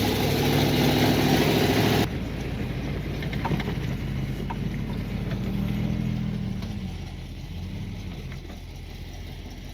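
A vehicle engine running, with an abrupt change in the sound about two seconds in; after that its pitch slowly rises and falls around the middle, and it gets quieter near the end.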